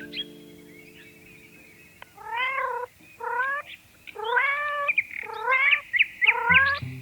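Cat meowing about five times in quick succession, starting about two seconds in. Each meow is short and bends up and then down in pitch.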